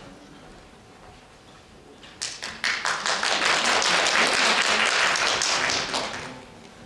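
Audience applause lasting about four seconds. It starts with a few single claps, swells into steady clapping from many hands, then dies away.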